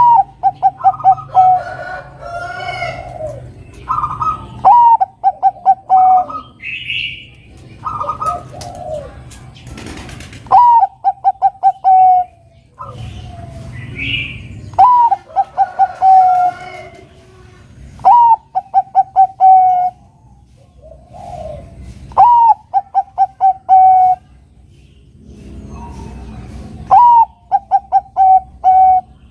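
Bangkok-line zebra dove (perkutut) singing its cooing song over and over: each phrase opens with a short upward note and runs into a quick string of soft, pulsed coos, about seven phrases a few seconds apart. Fainter, higher chirps of other birds come in between the phrases.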